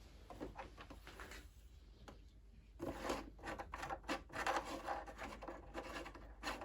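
Handling noises on a sewing machine: scattered clicks and light rubbing, becoming a busier run of clicks, scrapes and rubbing about three seconds in.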